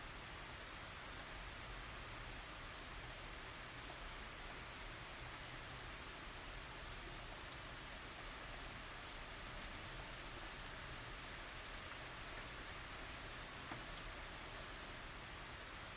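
Steady tropical rain falling, an even hiss with many small drop ticks on surfaces and no thunder.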